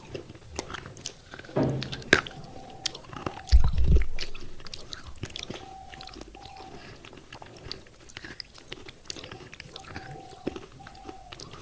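Close-up biting and crunching of thick pieces of baked clay pot, a dense run of sharp crackling clicks as the fired clay breaks between the teeth and is chewed. A heavy low thump comes about three and a half seconds in.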